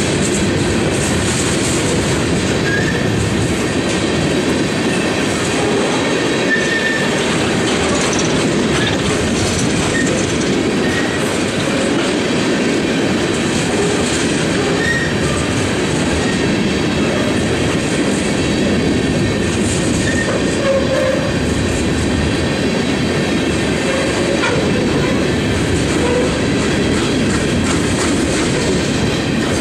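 Railroad cars rolling steadily past, wheels clicking over the rail joints, with short wheel squeals now and then.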